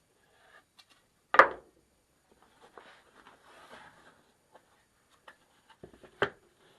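Handling of a solid wooden bandsaw box: two sharp wooden knocks about five seconds apart, the first the louder, with light rubbing and small clicks between them.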